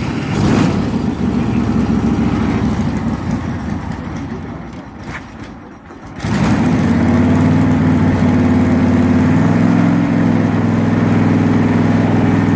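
A motor vehicle engine running steadily, cutting in abruptly. About six seconds in, a second, louder stretch of steady engine running starts suddenly.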